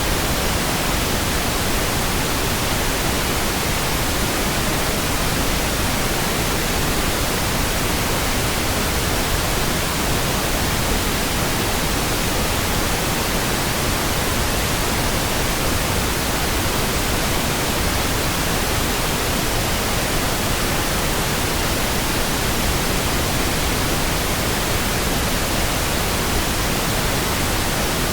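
Steady pink noise: an even, unbroken hiss spread across all pitches, with no changes or sudden sounds.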